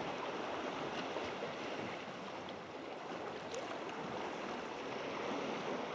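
Sea water washing and lapping around a sea kayak, a steady wash of water noise.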